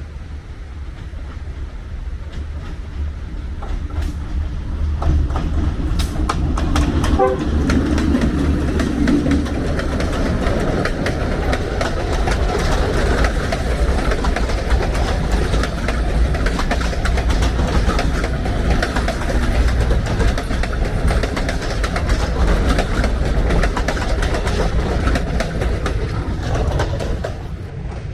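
Train passing close by on the track: a heavy engine rumble with the wheels clattering over the rails, building over the first few seconds and dropping away shortly before the end.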